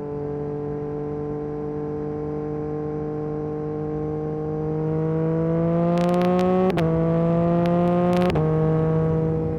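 Yamaha MT-09 SP's three-cylinder engine through an Akrapovic carbon racing exhaust, cruising steadily, then pulling up in pitch under throttle from about five seconds in. It makes two quick upshifts, each dropping the pitch, with sharp crackles around the shifts.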